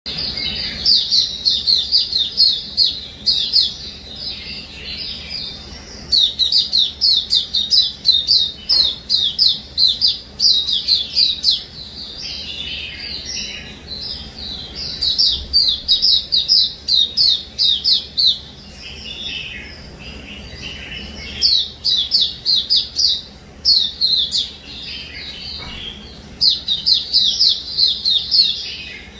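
Pet songbird singing: rapid runs of short, repeated, downward-slurred chirps, each run lasting one to two seconds, separated by brief pauses and softer twittering.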